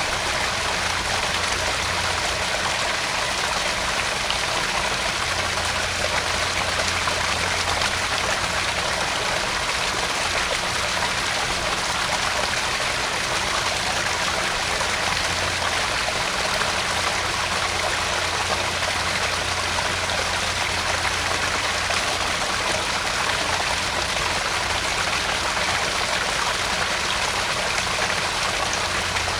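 Small garden pond waterfall: water splashing and trickling steadily into the pond, an unbroken even rush with no changes.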